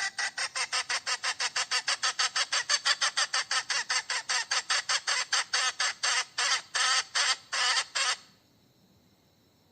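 Hen cackling: a fast run of short, evenly repeated calls, about five or six a second, slowing toward the end and stopping abruptly about eight seconds in.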